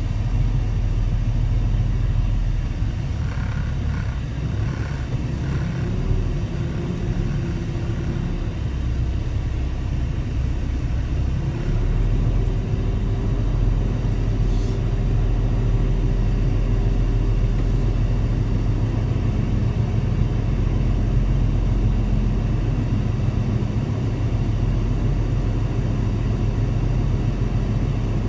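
Semi truck's diesel engine running as it drives, a steady heavy low rumble, its engine note stepping up in pitch about six and again about twelve seconds in. A row of five short high beeps comes a few seconds in.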